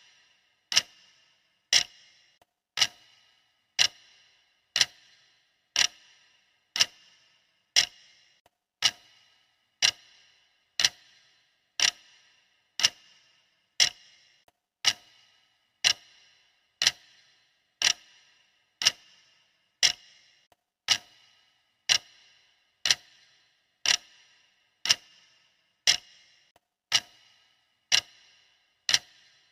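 Clock ticking steadily, one sharp tick about every second, each with a brief ringing tail.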